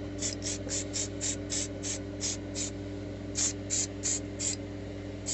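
Aerosol spray can fired in short bursts, about four a second, in three runs with brief pauses between, over a steady low hum.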